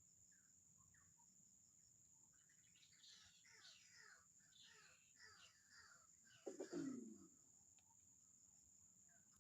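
Faint bird calls: a quick run of short, falling chirps starts about two and a half seconds in, with one louder, lower falling call about six and a half seconds in, over a steady high insect hum.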